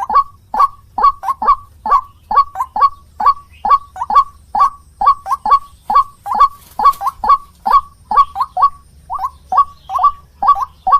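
White-breasted waterhen (ruak-ruak) calling: a rapid, unbroken run of short, loud notes, about two to three a second, with a brief break near the end.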